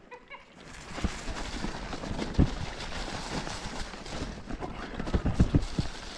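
Mountain bike riding over a rough forest trail: a steady rush of tyre and wind noise with irregular knocks and rattles as the wheels strike rocks and roots, several in quick succession near the end.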